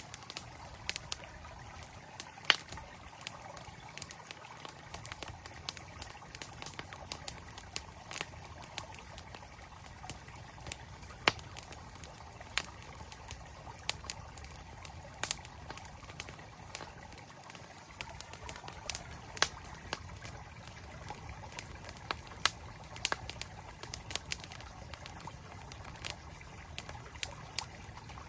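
Wood campfire crackling with many irregular sharp pops, over the steady rush of a flowing mountain stream.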